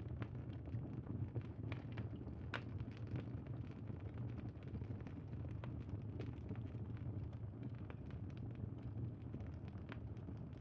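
Crackling campfire: a steady low rumble of burning with scattered small pops and crackles, a few sharper ones in the first few seconds.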